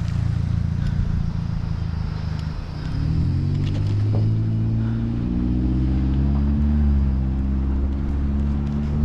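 A nearby motor vehicle's engine running, its pitch shifting up and down from about three seconds in as it pulls away.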